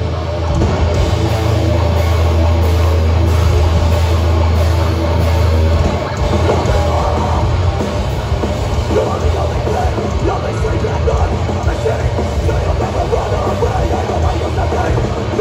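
Hardcore band playing live through a loud PA, heard from the crowd: distorted guitars, bass and drums. A held low bass note drones for about the first six seconds, then breaks into choppier riffing.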